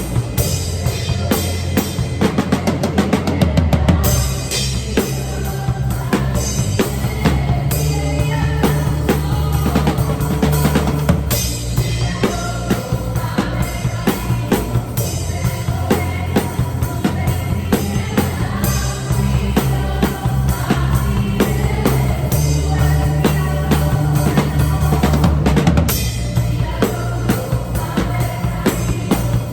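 Acoustic drum kit played live in room sound through a phone microphone: kick, snare and cymbals in a steady groove over the song's backing music with sustained bass notes, and a quick fill about three seconds in.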